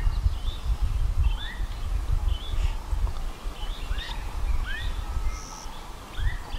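Birds calling repeatedly in the bush, with short rising whistles and quicker, higher chirps, over a loud, uneven low rumble.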